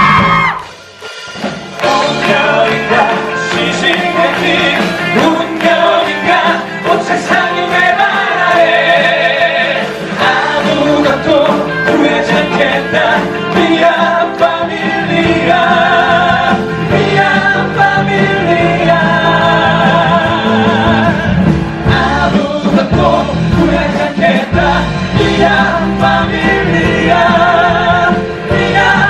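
Live musical-theatre song: male voices holding long, wavering sung notes over instrumental accompaniment, which resumes after a brief drop about a second in.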